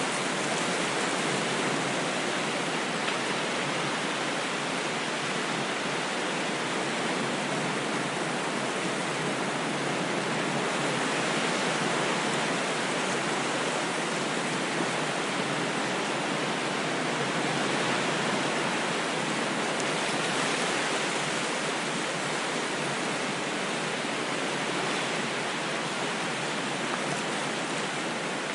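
Ocean waves washing in a continuous dense hiss, swelling and easing slightly every few seconds.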